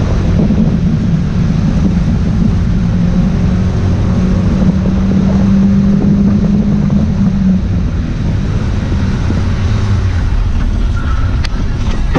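Car driving, with the engine holding a steady note and heavy road and wind noise; the engine note eases off after about seven seconds.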